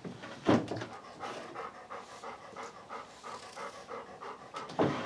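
Dog panting quickly and rhythmically, about four to five breaths a second, with a louder short sound about half a second in and another near the end.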